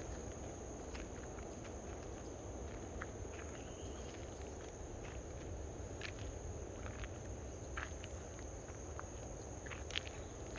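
Footsteps and small scattered clicks, a sharper one near the end, over a steady high-pitched insect drone, with a low rumble underneath.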